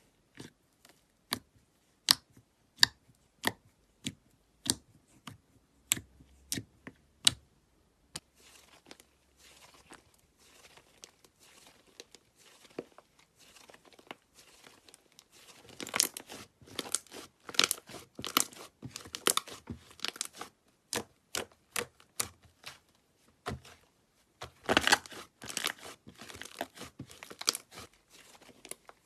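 Slime being handled: first a string of single sharp pops or snaps, then denser crackling and crunching, loudest in clusters about halfway through and again near the end.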